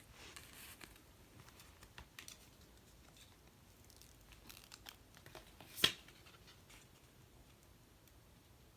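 Faint handling noises: light rustling, scratching and small taps, with one sharp click about six seconds in.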